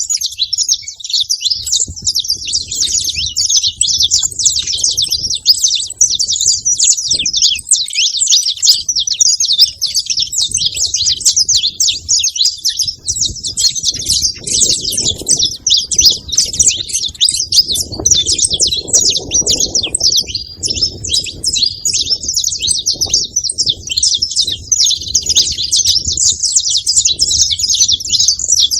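Saffron finch (canário-da-terra) calling and singing: a dense, unbroken stream of rapid high-pitched chirps.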